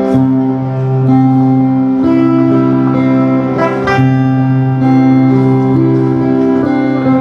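Instrumental intro of a slow ballad: guitar playing over sustained chords and a held bass note, the chords changing every second or two, with no singing.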